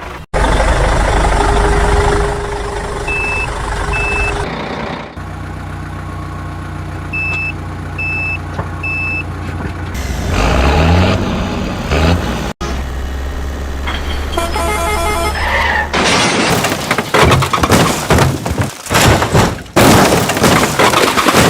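Construction-vehicle engine sounds in several short edited segments, with reversing-alarm beeps twice in the first half, a rising whine about halfway through, and louder rough noise near the end.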